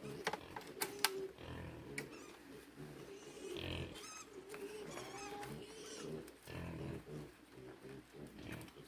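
Pigs grunting repeatedly, with a few sharp knocks in the first two seconds and small bird chirps around the middle.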